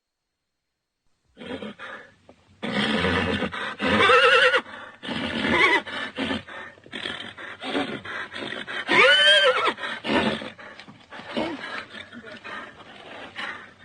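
Horse neighing and whinnying over and over, calls with a quavering pitch, the loudest about nine seconds in, rising and then falling; the first second and a half is silent.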